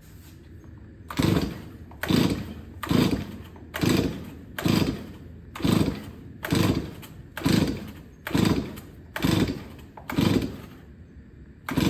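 Stihl 024 Wood Boss chainsaw being pull-started on full choke. The recoil starter is yanked about eleven times at roughly one pull a second, and each pull cranks the two-stroke engine without it firing or popping at all. The owner puts this down to poor compression from a worn piston.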